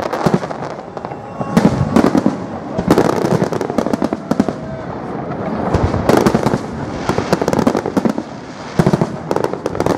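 Fireworks salute: a dense, continuous run of bangs and crackling bursts, easing briefly about one second and eight seconds in.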